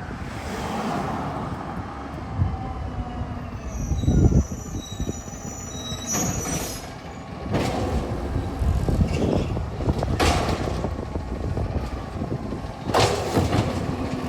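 Garbage truck running, with a high-pitched brake squeal about four seconds in and several short bursts of noise later on.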